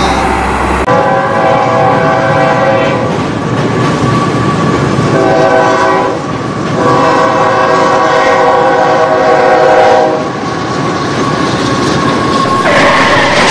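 Train horn sounding three blasts, the last and longest about three seconds, over steady clattering wheels on rails.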